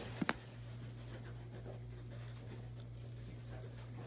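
Faint rustling and sliding of trading cards being handled, with two quick sharp clicks just after the start, over a steady low hum.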